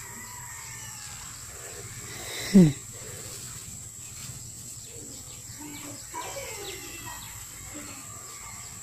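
Faint birds chirping in the background, with one loud, short squeal falling in pitch about two and a half seconds in.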